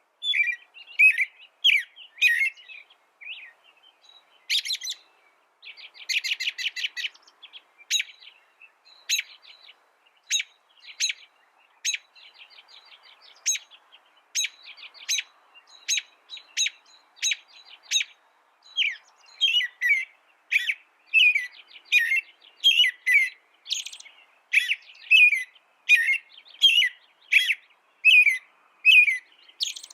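A songbird singing: a few chirps, then a short rapid trill about six seconds in, then a long run of sharp, evenly repeated notes, about one or two a second, which grow louder in the second half and are joined by downward-sliding chirps.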